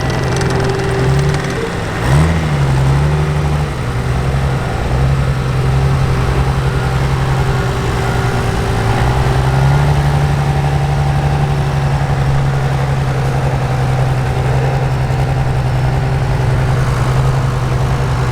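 Diesel pickup truck engine idling steadily, with a couple of short throttle blips near the start.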